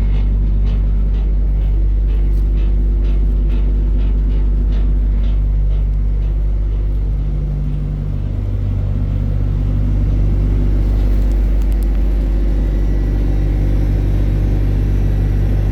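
Truck diesel engine idling steadily, with a low rumble that dips briefly about halfway through. Over the first six seconds there is a light regular ticking, about two a second.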